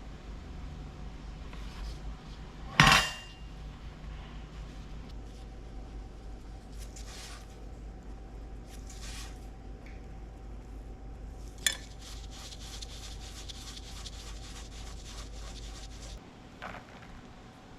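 Kitchen dishes and utensils clinking: a loud clink with a short ring about three seconds in, and a sharp click near the middle followed by a few seconds of rapid, even tapping. A steady hum runs underneath and stops near the end.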